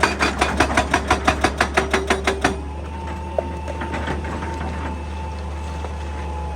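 Excavator engine running steadily. Over it, a rapid series of sharp knocks, about six a second, lasts for the first two and a half seconds and then stops, leaving the engine and a steady whine.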